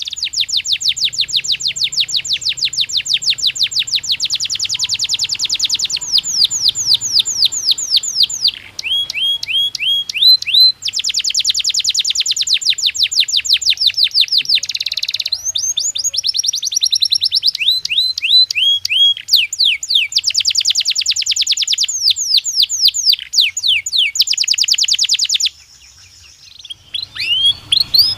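Domestic canary singing: long runs of fast, evenly repeated notes and trills, switching to a new phrase every few seconds, with a short pause near the end.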